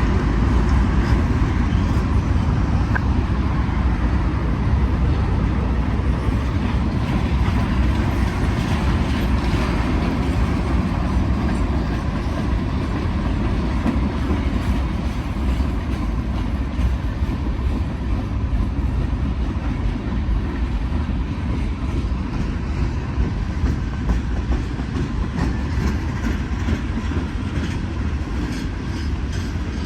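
Freight cars of a Norfolk Southern manifest train rolling past on the mainline: a steady low rumble of steel wheels on rail, with some clicking over the rail joints.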